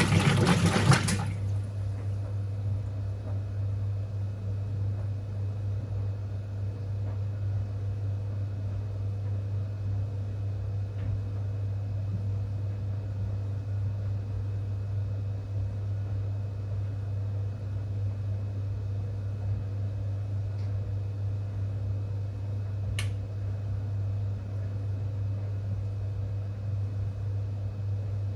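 Whirlpool top-loading washing machine running: a loud rush of water stops about a second in, leaving a steady low hum from the machine, with one short click a little over 20 seconds in.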